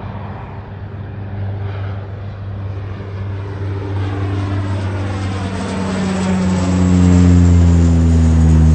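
Propeller airliner passing close by. Its engine and propeller drone grows steadily louder and slides down in pitch as it goes past, loudest near the end.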